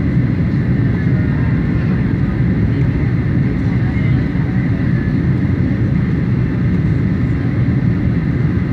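Boeing 737 cabin noise: a steady, loud, low rumble of engines and airflow.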